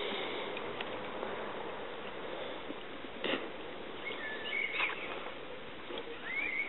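Steady background noise with a few short bird chirps, about four to five seconds in and again near the end, and one brief knock a little over three seconds in.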